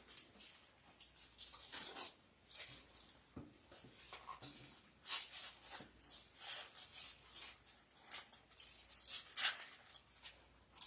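Pages of a Bible being leafed through: a run of short, dry paper rustles and flicks as the passage is looked up.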